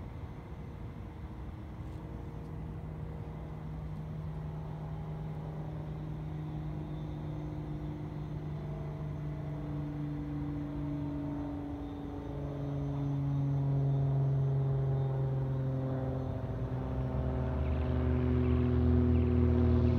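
Aeronca Champ's piston engine and propeller running at reduced power during a practice engine-failure exercise. The pitch climbs slowly and the sound grows louder, with a step up about twelve seconds in and louder again from about seventeen seconds in.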